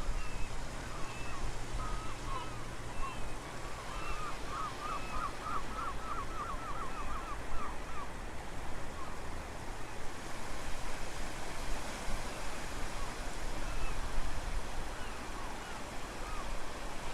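Steady rush of wind and surf with low wind rumble on the microphone, and birds calling over it: scattered short chirps, and a quick trill of about ten notes a few seconds in.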